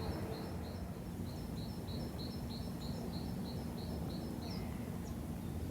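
A songbird singing a long run of short high notes, about three a second, each pairing two pitches, stopping about four and a half seconds in, over a steady low background rumble.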